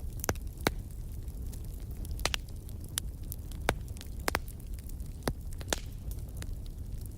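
Wood fire in a fireplace crackling: irregular sharp pops and snaps over a steady low rumble from the burning fire.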